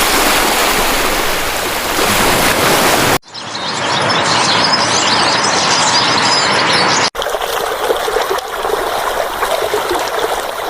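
Running, splashing water, a steady rushing noise that changes abruptly twice as one clip cuts to the next.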